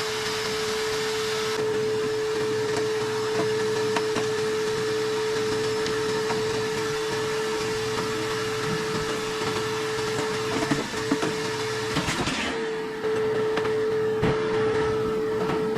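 Vacuum cleaner running steadily with a constant high hum while sucking debris out of a dirty gas boiler. A few knocks and a brief change in its sound come about eleven to thirteen seconds in.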